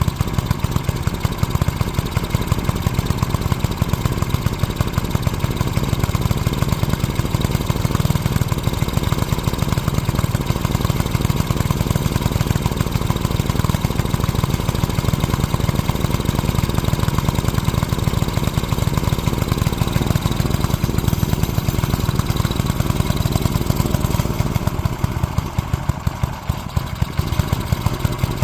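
Small gasoline engine on a garden tiller running steadily at idle, with a fast, even pulsing; it dips slightly in level for a moment near the end.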